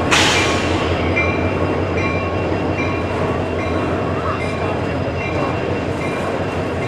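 Double-stack container train rolling past on well cars: the steady rumble and clatter of steel wheels on rail, with a sudden sharp noise right at the start.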